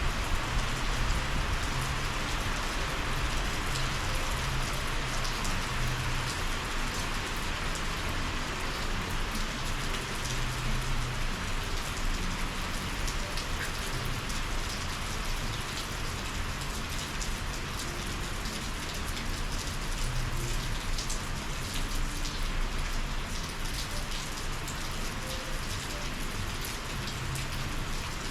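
Steady summer monsoon rain falling hard, a dense hiss with individual drops ticking through it. A faint low rumble comes and goes underneath.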